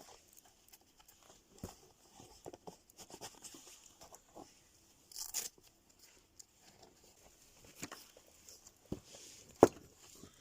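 Wood campfire crackling: scattered small snaps and pops at irregular intervals, with one sharp, loud pop near the end.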